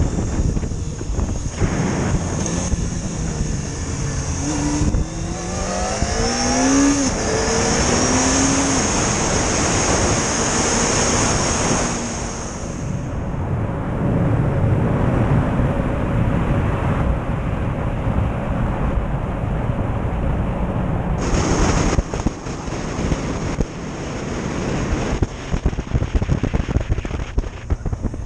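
Motorcycle being ridden, its engine rising in pitch a few seconds in as it accelerates, under a heavy rush of wind and road noise.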